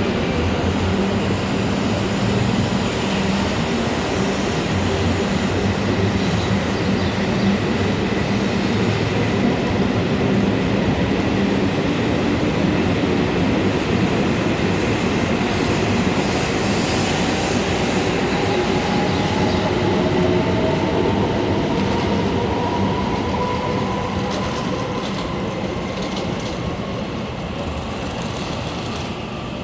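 Hokuriku Shinkansen W7 series train pulling out of the station: steady running rumble with a motor whine that rises in pitch as it gathers speed, the sound easing off near the end.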